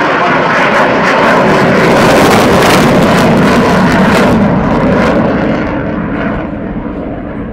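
Eurofighter Typhoon's twin EJ200 jet engines on afterburner during takeoff: a loud, crackling jet roar that swells to its peak about two to four seconds in, then fades as the aircraft climbs away.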